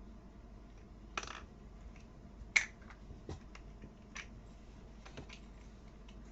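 Small plastic toy building pieces clicking and rattling as they are handled and fitted together: a brief rattle about a second in, one sharp loud click a little later, then scattered lighter ticks.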